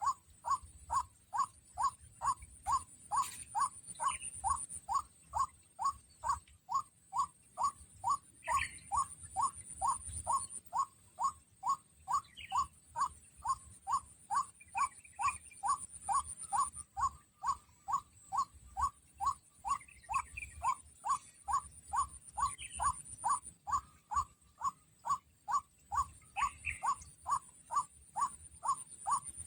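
White-breasted waterhen's kruak call, a short note repeated evenly a little over twice a second without a break. A high insect buzz swells and fades behind it.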